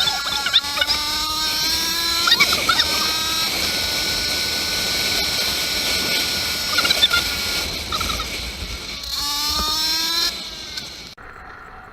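Motorcycle engine accelerating, its pitch climbing in steps through the gears, with steady wind rush over the microphone. It pulls up again about nine seconds in, then falls away sharply near the end.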